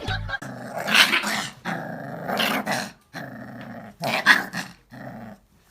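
A dog growling in a run of rough bursts, with louder peaks about a second in and about four seconds in.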